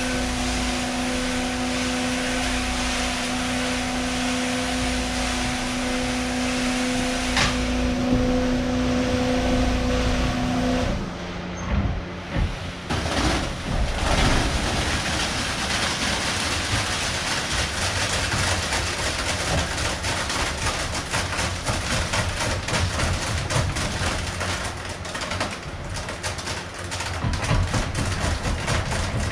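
A motor hums steadily. About eleven seconds in the hum stops, and a rough, rattling noise full of small clicks takes over.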